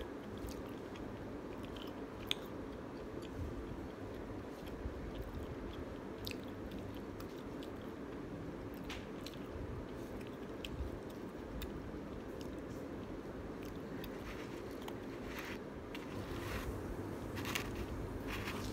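Close-up chewing of a mouthful of pan pizza, with small crunches and mouth clicks. Near the end come louder rustling and scraping sounds as the pizza is handled in its cardboard box.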